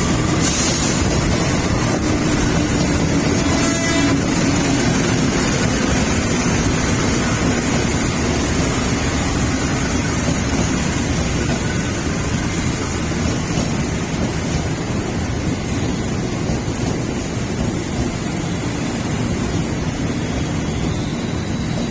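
A train running through the station close by: a loud, steady rumble and rush with a low tone sliding slowly down over the first few seconds, easing off slightly near the end.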